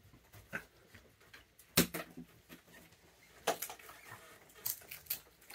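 Scattered light clicks and knocks of small objects being handled, with one sharper knock a little under two seconds in and a few more in the second half.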